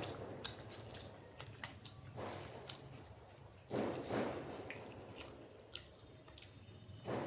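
Close-miked mouth sounds of a person chewing food, with many small wet clicks and smacks and a few louder bites or chews.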